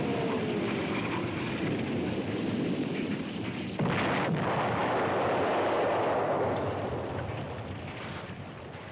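Artillery shells bursting in a heavy, continuous rumble, with the falling whistle of an incoming shell in the first couple of seconds and a fresh blast about four seconds in; the rumble dies away toward the end.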